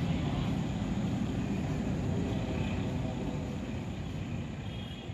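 Passenger train rolling slowly past on the far track of a station: a steady low rumble of wheels on rails that fades over the last couple of seconds.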